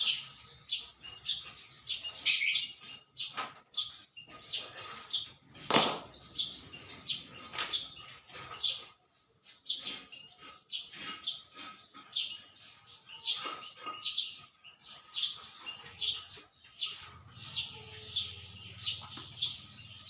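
Small birds chirping steadily, short high calls coming about twice a second, with one sharp knock about six seconds in.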